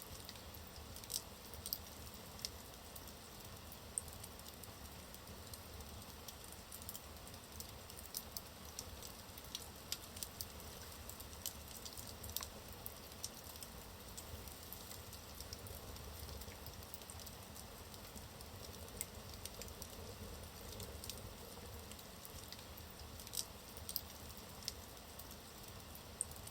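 Wood logs burning in a fireplace. A soft steady hiss runs under frequent, irregular crackles, with a few louder sharp pops.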